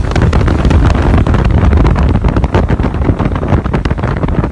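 Heavy wind buffeting a microphone: a loud low rumble with rapid crackling pops throughout.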